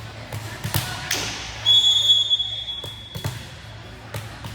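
Volleyball thudding off hands and the gym floor with an echo, then a referee's whistle sounding one long, steady blast that is loudest at first and fades out.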